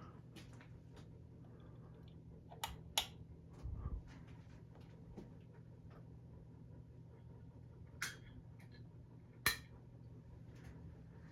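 A CEI-made Hampton Bay Carousel ceiling fan runs with a steady low motor hum. Over it come a few sharp clicks: two close together about three seconds in, one near eight seconds and one near nine and a half seconds. There is also a dull low thump about four seconds in.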